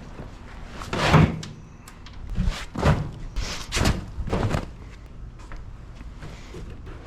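Rolled-up carpet and carpet padding being loaded into a pickup truck bed: about five dull thumps and scuffs spread over a few seconds.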